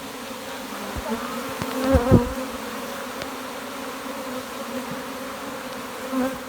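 A swarm of honeybees buzzing steadily in the air close by, the bees agitated and stinging, with a couple of dull knocks about two seconds in.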